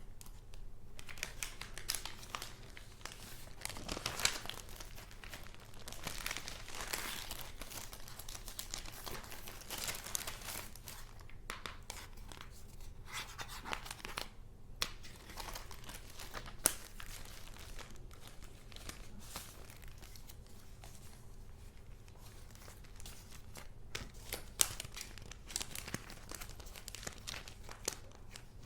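Paper and junk-journal paper goods being handled, a continual crinkling and rustling, with a few sharp taps standing out.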